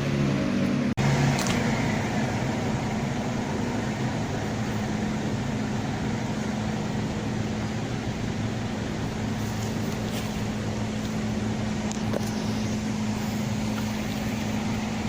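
Scania K320iA articulated bus's 9-litre diesel engine running at a steady pace: a constant droning hum with road noise. The sound drops out for an instant about a second in.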